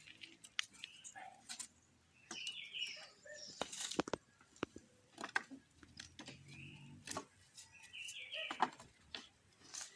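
Firewood knocking and clattering in irregular sharp knocks as logs are handled and stacked into a bonfire pile. Short bird chirps sound a few times in the background.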